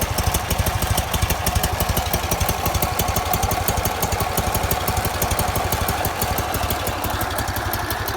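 Polski Fiat 126p 650 cc air-cooled two-cylinder engine running steadily at idle, with an even, rapid pulsing beat.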